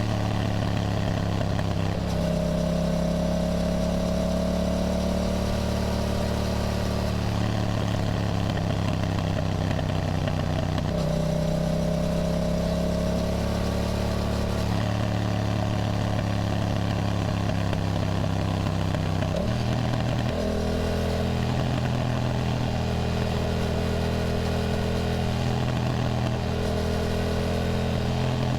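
Yamaha motorcycle engine running under way on the road. Its note holds fairly steady with small rises and shifts in pitch every few seconds, and a brief break about twenty seconds in, over steady wind and road noise.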